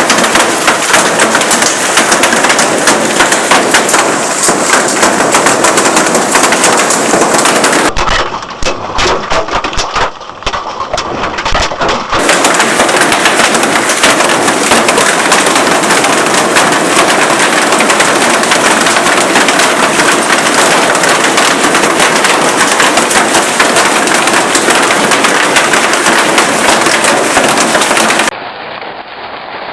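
Large hailstones pelting hard surfaces in a dense, rapid clatter. The sound thins out for a few seconds about a third of the way in, then returns just as loud, and drops away abruptly near the end.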